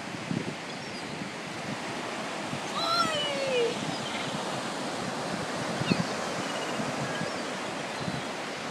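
Ocean surf and wind hissing steadily, with a seagull giving one clear, downward-sliding call about three seconds in and a few fainter gull calls after it.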